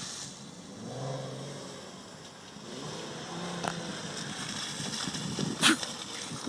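Volkswagen 4Motion car's engine running at low revs over wind noise on the microphone, with one sharp knock a little before the end.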